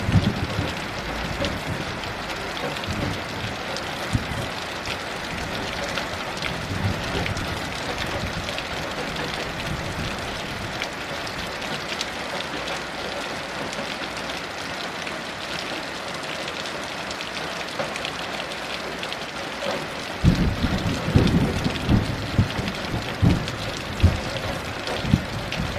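Steady heavy rain, with low rumbles of thunder at the very start and again, in several surges, over the last five seconds or so.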